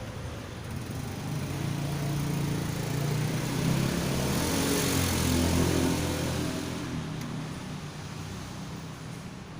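A motor vehicle engine grows louder for about five seconds and then fades, its pitch dropping as it goes.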